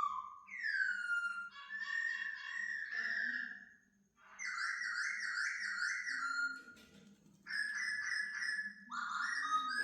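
Laughingthrush singing a run of varied whistled phrases: downward-sliding notes, fast repeated trills and warbles, with short breaks between them.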